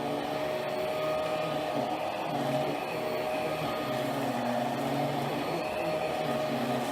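Hoover Power Drive Pet upright vacuum cleaner running steadily, its motor hum shifting slightly in pitch every second or so.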